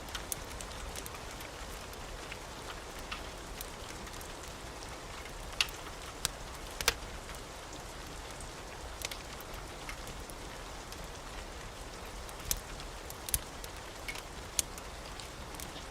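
Steady rain hiss with irregular sharp pops and crackles from a wood fire in a fireplace.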